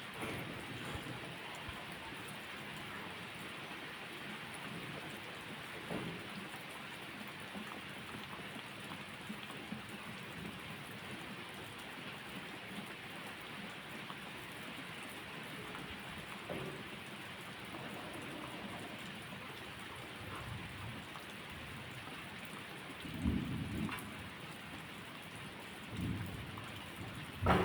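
Steady rain falling, with a few short, low rumbles of thunder in the last few seconds, the loudest right at the end.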